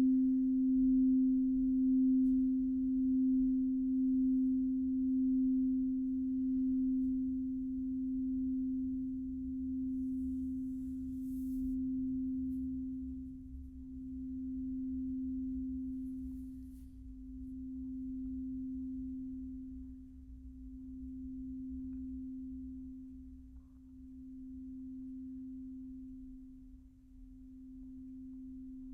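A single pure ringing tone a little above 250 Hz from a sound-healing instrument, slowly fading. It wavers in a pulse that starts quick and slows to one swell every few seconds.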